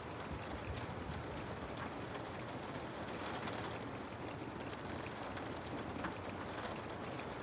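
Steady rain falling, an even wash of rainfall with scattered drop patter.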